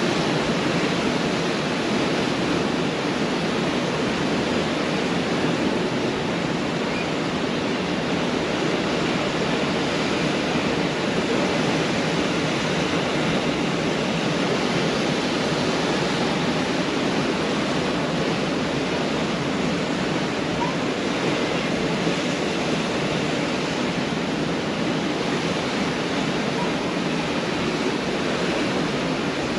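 Pacific Ocean surf breaking on a beach, heard as a steady, unbroken wash of waves.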